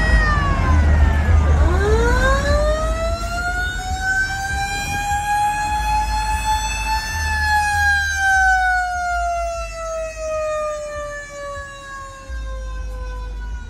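A siren wails: its pitch drops sharply in the first two seconds, climbs back up over the next five, then slides slowly down. A low rumble runs underneath.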